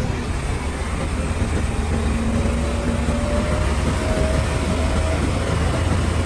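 Heavy construction-machine diesel engine running steadily under load, a deep low drone with a faint thin whine over it in the middle.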